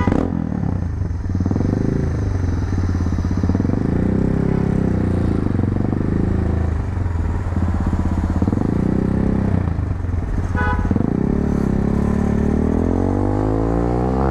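250cc motorcycle engine running through an aftermarket muffler while riding, its revs rising and falling repeatedly, then climbing steadily in a long pull near the end.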